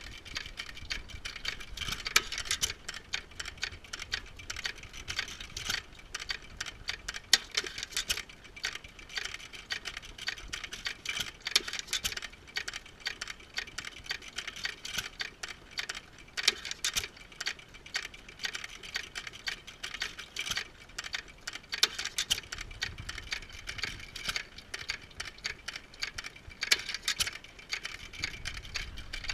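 Antique hit-and-miss engines running, a steady clatter of small mechanical clicks and ticks with a sharper, louder snap about every five seconds.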